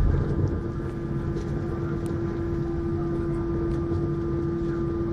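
Cabin noise inside an Airbus A321: steady engine hum with one constant tone over a low rumble, with a brief bump in loudness right at the start. The pitch does not rise, so the engines are not spooling up for the takeoff roll.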